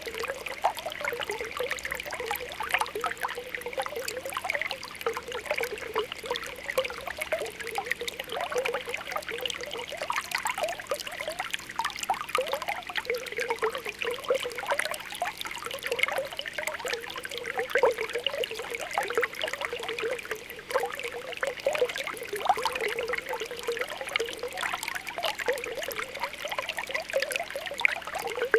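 Spring water welling up from the ground, popping and bubbling in a continuous stream of small plops over a steady trickle.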